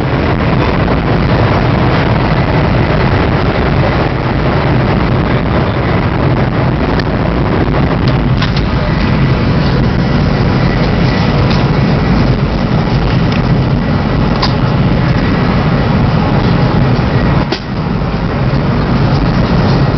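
Cabin noise of a high-speed train running at about 305 km/h: a steady, loud rumble and rush, dipping briefly near the end.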